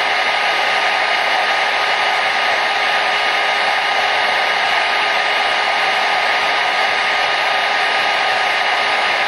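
Hair dryer running continuously at a steady speed: an even rushing hiss of blown air with a faint motor whine, unchanging throughout.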